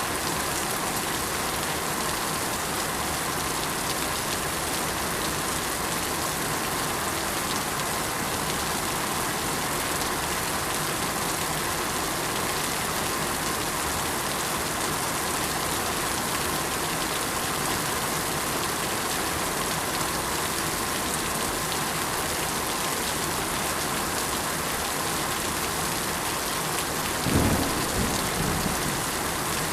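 Steady rain falling, an even hiss of many drops. Near the end comes a brief low rumble of thunder.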